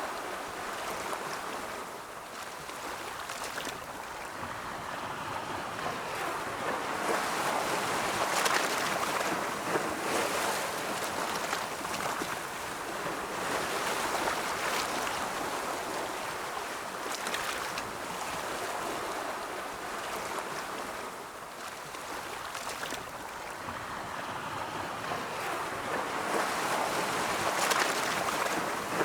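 Ocean surf: waves rolling in and washing back in a continuous rushing wash that swells and ebbs slowly, building to stronger breaks about a third of the way in and again near the end.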